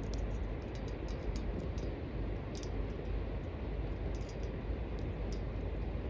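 Small wood fire burning in a cooking bowl, crackling with irregular sharp pops over a steady low rumble.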